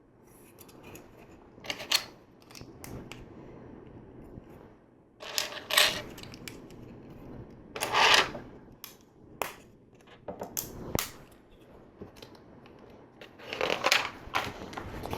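LEGO plastic pieces being handled and pressed together: scattered sharp clicks with a few short rattling bursts, the loudest near the middle.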